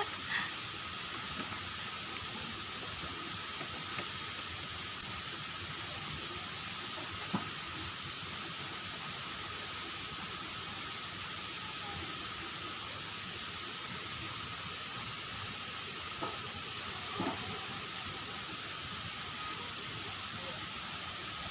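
Steady rush of a waterfall: an even hiss of falling water, with a couple of faint knocks.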